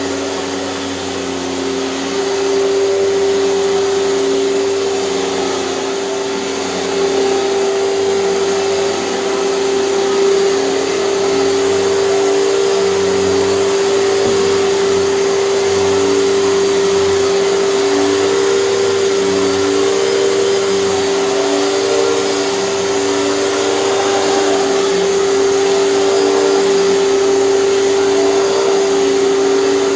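Hoover canister vacuum cleaner running steadily with a constant motor hum, with lower tones wavering as the power nozzle is worked.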